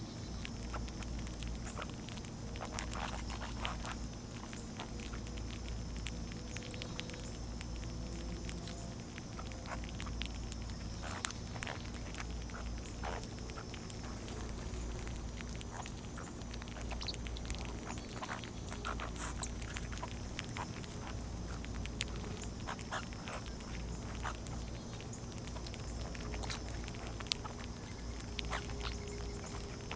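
Small birds feeding at a backyard feeder: scattered short chips and light pecking clicks over a steady low hum and a thin, steady high-pitched drone.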